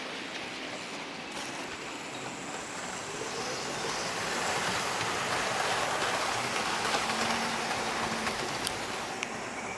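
Model train running along the layout's track, a steady rushing rumble of wheels and motor that swells in the middle as it passes close, then eases, with a few light clicks near the end.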